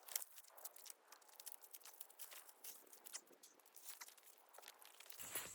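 Near silence, broken by faint, scattered crackles and ticks of dry twigs and brush.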